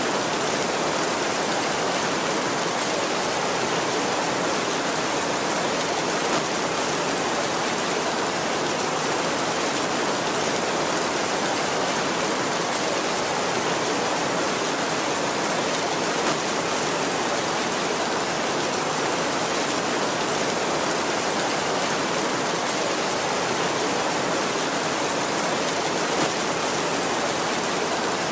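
Heavy rain falling steadily on a tin roof: a dense, even hiss that holds unchanged throughout.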